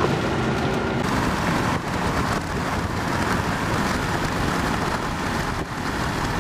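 High wind and heavy rain from a severe thunderstorm line, a steady dense rushing noise with a low rumble underneath.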